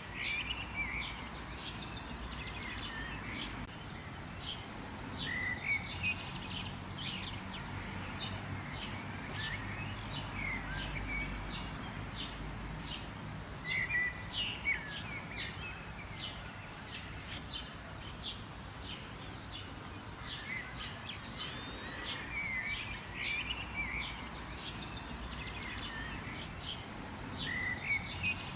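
Several small birds chirping and trilling in short, overlapping high-pitched calls, with a few louder bursts of song, over a steady low outdoor hum.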